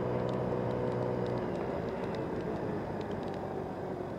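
Motor scooter engine running while riding, a steady hum under wind and road noise; its lowest tone fades about a second and a half in as the engine eases off.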